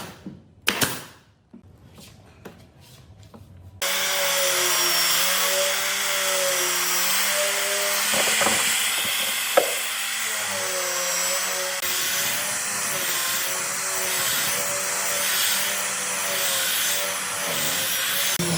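A couple of sharp wooden knocks, then about four seconds in a power tool sets in abruptly and runs steadily on wood, its motor pitch wavering up and down as the load changes.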